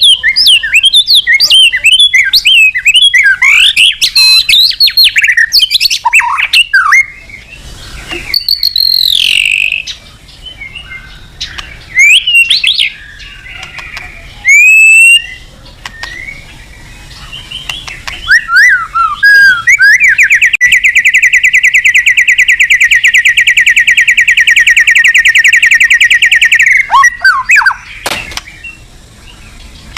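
White-rumped shama in loud, full song, the kind of challenge song used to provoke a rival. It opens with a run of varied, quick whistled phrases, then gives a few sweeping whistles with pauses between them. In the second half comes a long, rapid, even trill lasting about six seconds.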